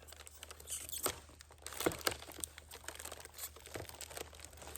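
Adhesive tape being peeled off an RC airplane and crumpled, irregular crackling and short ripping sounds.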